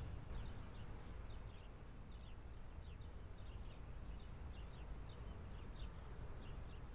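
Faint steady low rumble with many short, quick high chirps scattered through it.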